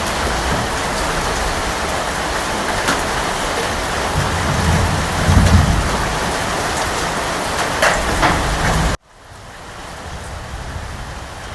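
Steady heavy rain with a low rumble of thunder swelling about halfway through and a few close drips splatting near the end. About nine seconds in it cuts off abruptly to a quieter, lighter rain.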